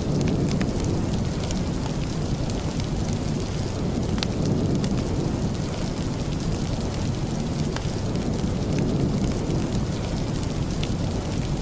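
Steady rain, heavy in the low range, with scattered faint sharp ticks throughout.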